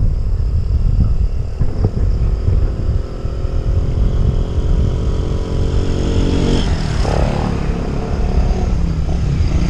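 Road traffic: a motor vehicle engine, likely a motorcycle, runs close by for a few seconds and then fades, over a steady loud low rumble.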